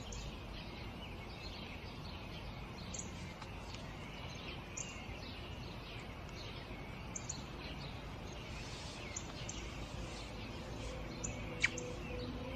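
Small birds chirping over a steady low outdoor hiss, with one sharper, louder note near the end.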